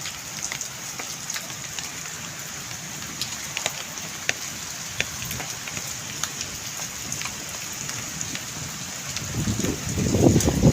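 Heavy rain falling steadily, with many sharp ticks of drops or hailstones striking hard surfaces. A louder, low rushing noise comes in near the end.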